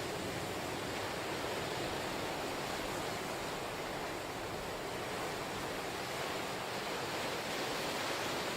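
Ocean waves breaking and washing on the shore as a steady, continuous rush of surf.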